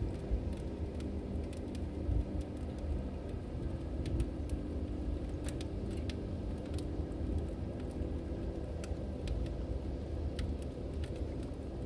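Wood fire burning in a fireplace: a steady low rumble with scattered sharp crackles and pops from the logs.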